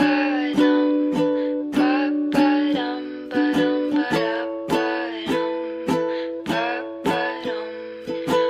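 Music: strummed ukulele chords in a steady rhythm, each strum ringing on until the next.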